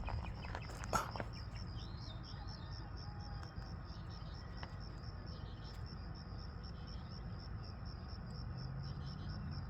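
A cricket chirping steadily in evenly spaced, high pulses, with a few faint bird calls from the flock passing overhead, over a low steady rural hum.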